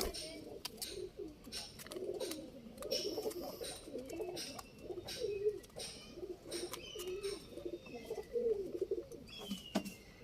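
Domestic pigeons cooing, several low wavering coos overlapping without a break, with scattered short sharp clicks.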